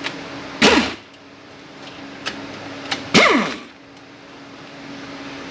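Two bolts on a plate inside a Kia A6LF2 automatic transmission being tightened to torque, each giving a short, sharp sound that falls in pitch. The two sounds come about two and a half seconds apart, over a steady low hum.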